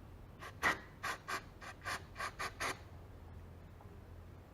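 Aerosol cleaner sprayed onto a dirt bike carburetor in about nine short squirts of hiss over roughly two seconds, then stopping.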